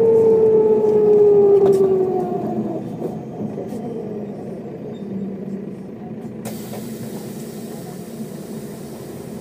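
Mercedes-Benz O407 city bus with a whine that falls steadily in pitch as the bus slows, then quieter, steady low running. A high hiss starts abruptly about six seconds in.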